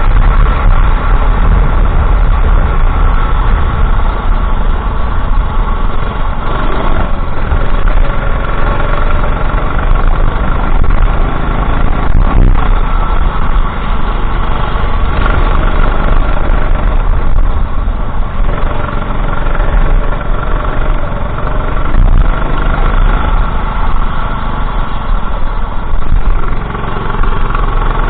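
Go-kart engine running continuously at racing speed, loud and close to the microphone.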